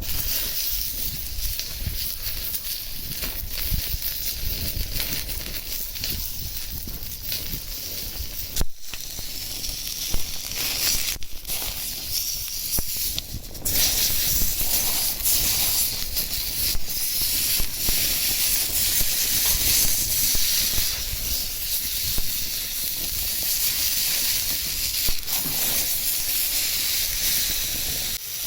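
Meat sizzling on a hot iron griddle plate over a small wood fire, a steady high hiss with frequent small pops, interrupted briefly three times around a third of the way through.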